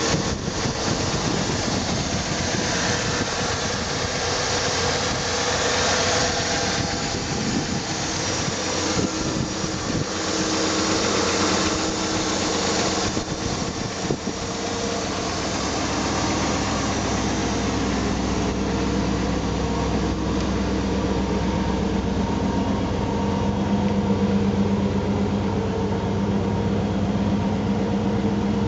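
1956 Cadillac Fleetwood's 365 cubic-inch V8 idling steadily. Close to the engine bay there is a hiss over it. From about halfway a deeper low note grows stronger.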